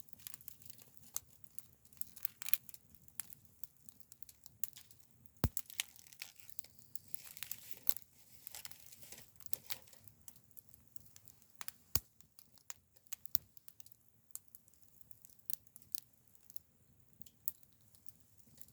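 Wood fire crackling, with scattered sharp pops and snaps at irregular intervals.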